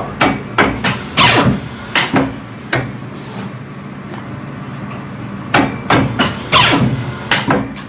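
A run of sharp knocks or taps, irregularly spaced, with a pause of a couple of seconds in the middle, over a steady low hum.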